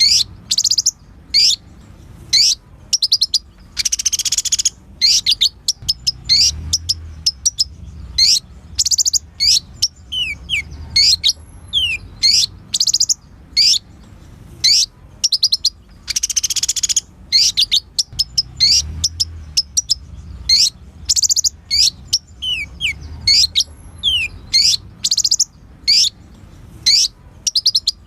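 Kolibri ninja sunbird singing: a fast, unbroken string of sharp, high chirps and slurred whistles, broken now and then by a brief buzzy trill, the pattern coming round again about every twelve seconds.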